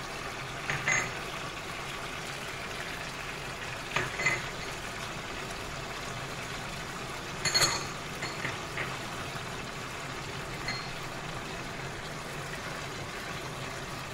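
Chicken and tomatoes frying in oil in a nonstick wok, a steady sizzle, with a few sharp clinks and knocks of utensils against the pan, the loudest about seven and a half seconds in.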